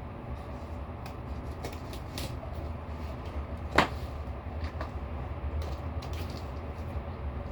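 Scattered small clicks and taps over a steady low rumble, with one sharp, louder click a little past the middle.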